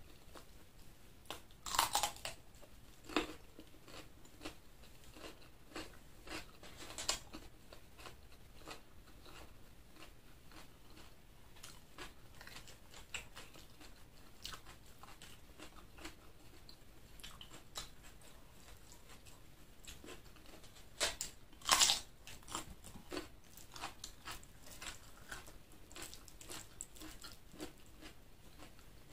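Close-miked eating sounds: chewing with scattered crisp, crunching bites, the loudest about two seconds in and again about twenty-two seconds in.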